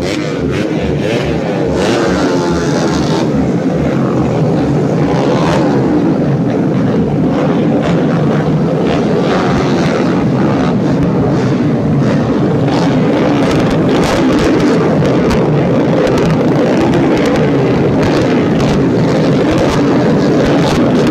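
Several tuned 130cc underbone racing motorcycle engines revving hard together, their pitches rising and falling and overlapping, getting a little louder about two seconds in.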